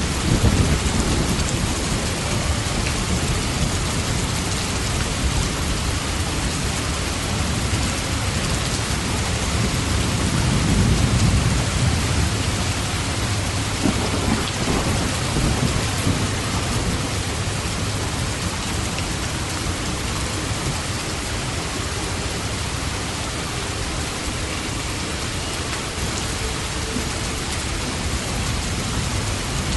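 Steady heavy rain with low rolls of thunder, one rumble near the start and a longer one about ten seconds in.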